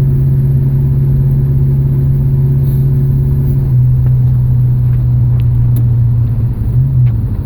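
Freshly rebuilt Pontiac 400 V8 in a 1969 Firebird running steadily as the car cruises on the road. Its pitch drops a little about four seconds in, and the sound eases off near the end.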